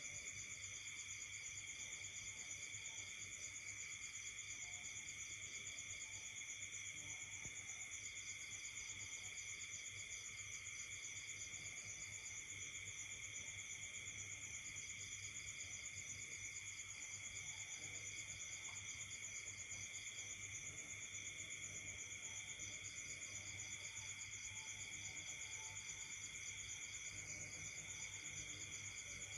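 Night chorus of insects: steady high trilling at several pitches, with one faster-pulsed trill that starts and stops every few seconds.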